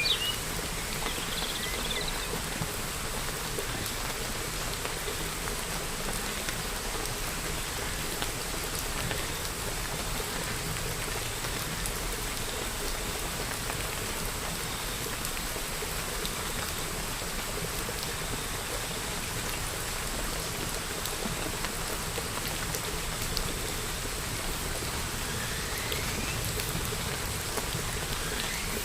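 Steady rain falling, drops pattering evenly on surfaces, with a few faint bird chirps in the first couple of seconds and again near the end.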